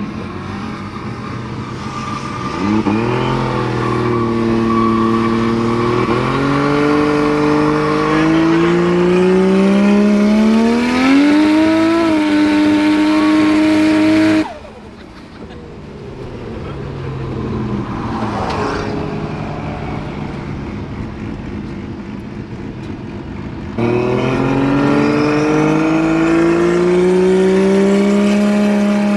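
Nissan R33 Skyline's engine heard from inside the cabin, accelerating with its pitch climbing and dipping back at each gear change. It drops sharply to a quieter note about halfway, then comes back loud and climbs again near the end.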